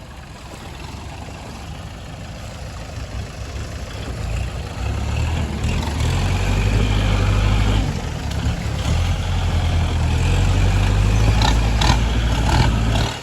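Tractor engine running with a low, heavy rumble. It grows louder about four seconds in, dips briefly near eight seconds, then stops abruptly near the end.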